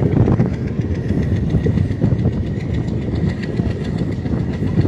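Train wheels running over the rails, heard from the open doorway of a moving coach: a steady loud rumble with many quick clacks over the rail joints.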